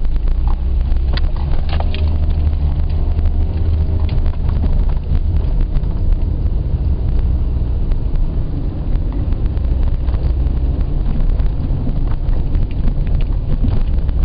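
Car driving, heard from inside the cabin: a steady, loud low rumble of engine and tyre noise with faint rattles and clicks over it.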